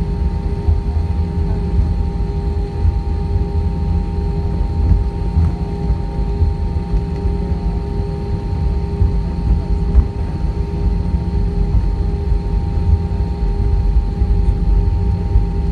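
Airbus A320 cabin noise on the ground after landing: a steady low rumble with constant whining tones over it, and one faint click about ten seconds in.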